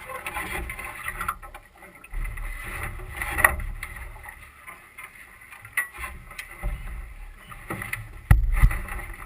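Duck boat under way on a creek with its 31 hp Mud Buddy Hyperdrive surface-drive motor, an uneven low rumble broken by several sharp knocks. The loudest is a heavy thump a little after eight seconds in.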